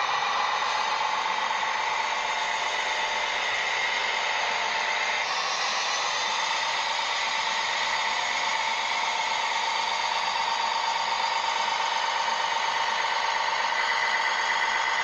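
Small electric motor and gearbox of an RC construction model whining steadily, the pitch shifting about five seconds in as the load or speed changes.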